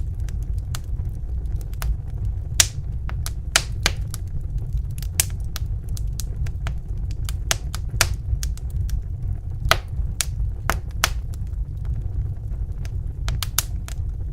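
Wood fire crackling in a fireplace: irregular sharp pops and snaps, sometimes in quick clusters, over a steady low rumble of the burning fire.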